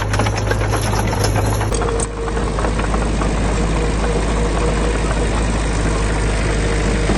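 Heavy diesel engine of earthmoving machinery running steadily with a deep drone and rapid clattering. The sound changes abruptly about two seconds in, then the engine runs on.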